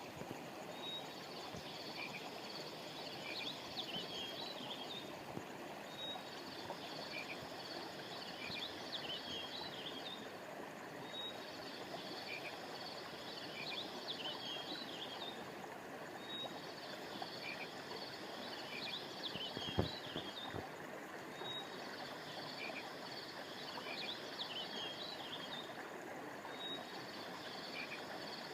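Steady rush of flowing river water under a high chirping chorus of frogs or insects that comes in bursts of about four seconds, repeating roughly every five seconds. A single short thump sounds about two-thirds of the way through.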